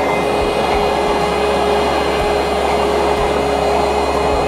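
Container freight train's loaded wagons rolling past: a loud, steady rumble of steel wheels on the rails, with a thin steady whine and a few dull knocks from the running gear.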